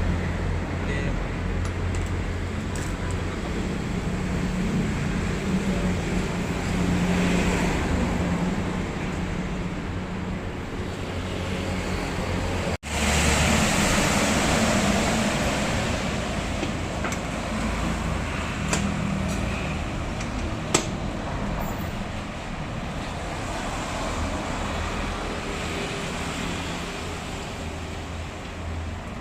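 Benelli Motobi 200 Evo single-cylinder engine running steadily through an aftermarket exhaust, with a deep, even drone. The sound cuts out for an instant about 13 seconds in, then carries on.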